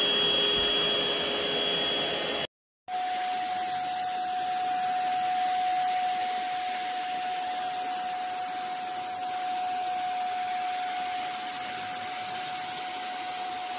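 Handheld dust-mite vacuum cleaner motor running with a steady high whine. It cuts out abruptly about two and a half seconds in, then after a brief silence runs again with a lower steady whine.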